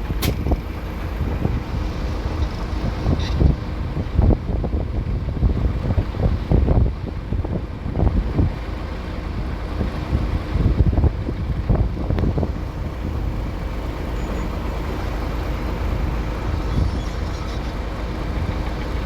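Heavy machinery engine running steadily with a low rumble and irregular low thumps.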